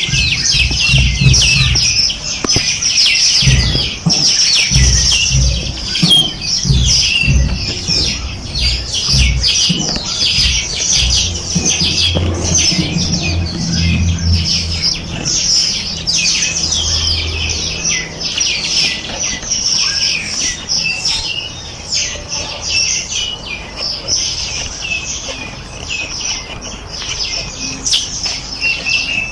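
A dense chorus of many small birds chirping and trilling over one another without pause. Irregular low thumps and rumble run underneath during the first half and fade out after about 18 seconds.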